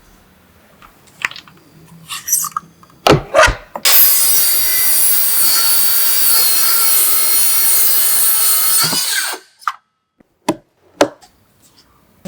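A few knocks and clatters, then a power tool cutting wood runs steadily for about five seconds and stops abruptly, followed by a few more sharp knocks.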